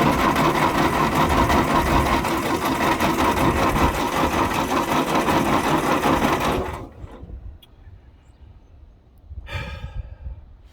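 Starter motor cranking the 1956 Ford tractor's engine for about seven seconds without it catching, then stopping suddenly.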